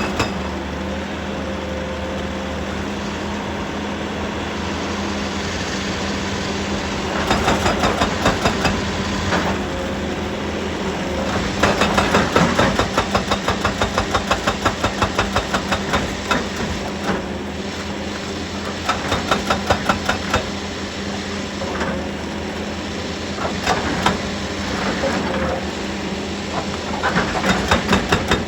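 Heavy excavator's diesel engine running steadily, broken by several spells of rapid, evenly spaced knocking at several strikes a second.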